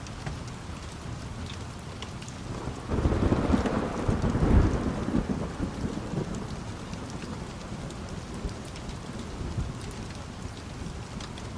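Steady rain with a roll of thunder that swells about three seconds in, peaks a second or so later and rumbles away over the next few seconds.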